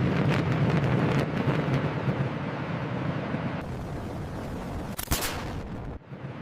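Deep rumbling with rapid crackles, like cinematic explosions or destruction, easing to a steadier rumble; a sharp loud crack comes about five seconds in, and the sound drops off suddenly about a second later.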